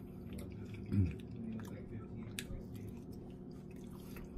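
Close-miked chewing of a mouthful of roast pork: soft wet mouth sounds with small clicks, and a short low hum about a second in.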